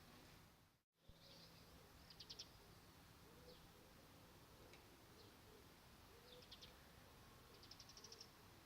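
Faint birdsong: three short rapid trills of high notes, about two, six and a half, and eight seconds in, with a few single chirps between them, over a low steady hum. The sound cuts out completely for a moment about a second in.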